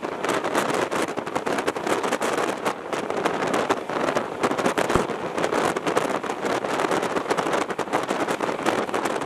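Running noise of a fast Indian Railways train, heard from its window: a steady rush of wind mixed with a dense, fast rattling clatter, and one sharp knock about halfway through.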